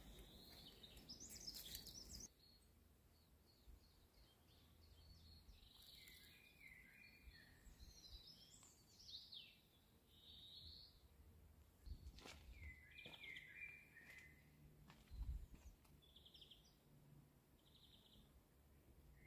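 Faint outdoor birdsong: songbirds chirping and trilling in short phrases, scattered through, with a few soft knocks.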